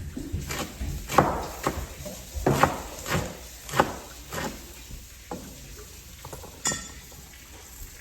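Irregular knocks and clinks of kitchen utensils and cookware being handled, busiest in the first half, with a short ringing clink near the end.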